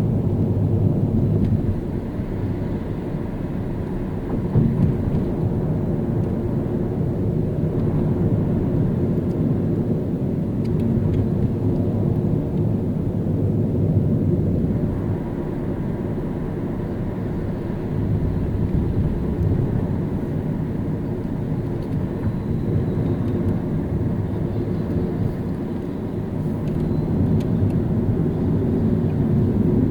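A car driving in city traffic: steady low road and engine noise that swells and eases with the traffic, with a brief louder bump about four and a half seconds in.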